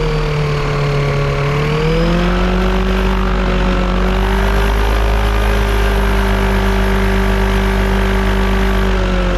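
Yamaha Apex engine in a Kitfox airplane running steadily. Its speed rises slightly about two seconds in, then holds. It is being tested for a misfire that is suspected to come from a vacuum leak.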